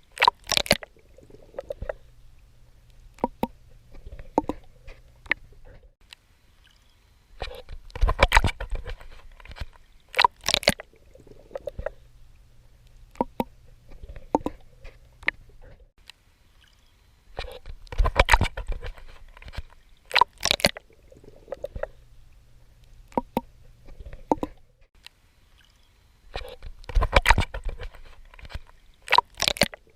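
A person swimming in water: splashing strokes and sloshing, coming in a cycle that repeats about every nine and a half seconds, each cycle with two louder splashes a couple of seconds apart followed by softer sloshing.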